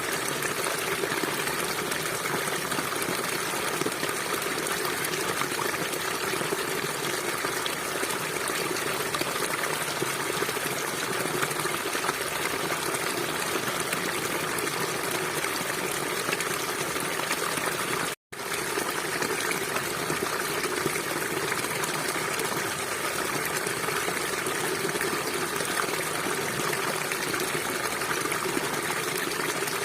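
Steady rushing of a flowing river, water running over rocks, cutting out for an instant about two-thirds of the way through.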